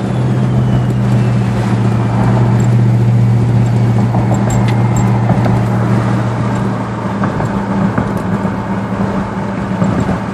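Turbocharged 2009 Jeep SRT8's engine holding a steady low drone at cruise with tyre and road noise, heard from inside the cabin. It eases slightly in the second half.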